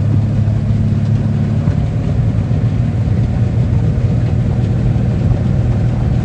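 Engine running steadily with a loud, constant low hum, with no change in speed. It is an ailing engine under an oil pressure test, which the owner calls not well but not dead.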